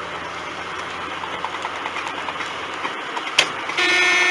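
Steady road and engine noise from inside a moving car. A sharp click comes about three and a half seconds in, and just after it a car horn sounds, loud and steady, near the end.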